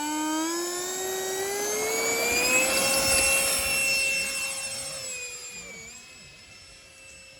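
Radio-controlled F-4 Phantom model jet's engines whining as they throttle up, the pitch rising for about two seconds and then holding. The whine is loudest a few seconds in and fades after about five seconds as the plane draws away.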